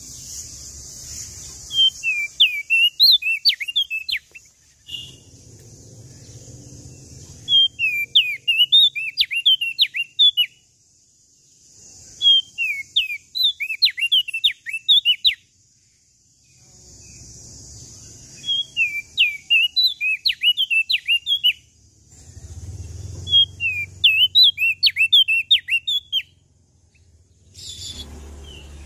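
Prenjak daun songbird singing in five bouts of rapid, high, sharply rising and falling chirps, each a couple of seconds long, with pauses of a few seconds between them. A faint steady hiss fills the pauses.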